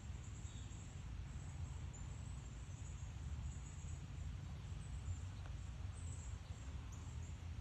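Faint, high, short bird chirps coming again and again, over a steady low rumble.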